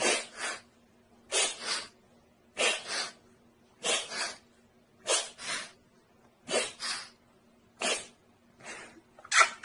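A bird making raspy, sneeze-like double huffs over and over, about one pair every 1.3 seconds, over a faint steady hum.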